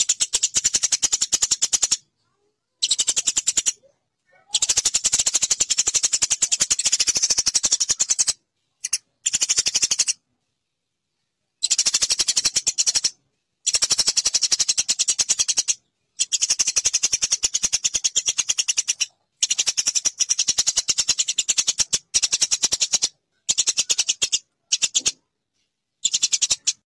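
Eurasian tree sparrow chattering: fast, dry trains of sharp high chirps in bouts of one to four seconds, broken by stretches of total silence.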